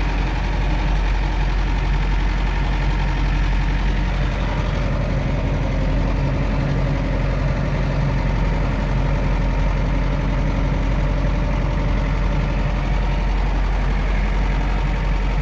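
Farm loader tractor's engine running steadily as the tractor drives along the driveway.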